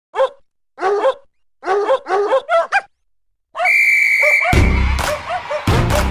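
A puppy yipping and barking in quick, high-pitched bursts, about eight in all. Then a sports whistle blows one held note for about a second, and music with a heavy beat starts under it.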